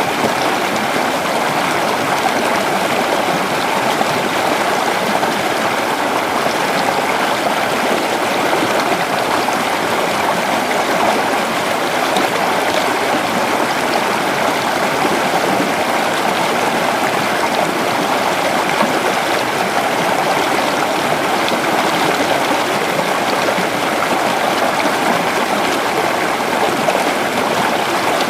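Creek water flowing over rocks in a steady, unbroken rush and babble.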